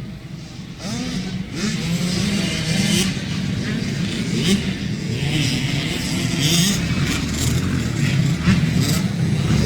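Dirt bike engine running and revving, its pitch rising and falling, growing louder about a second in.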